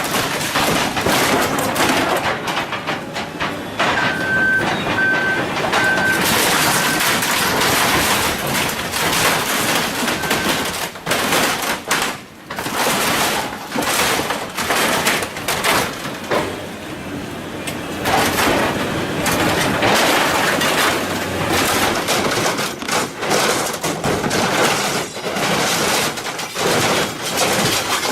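Heavy machinery shredding and crushing scrap metal: a dense grinding, tearing noise with many sharp clanks and bangs. A few short beeps sound about four seconds in.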